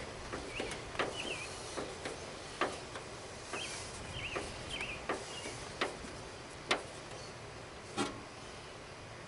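Irregular light knocks and clicks of hands working a plastic grille into a mower hood, two louder knocks near the end, with a few short chirps in the background.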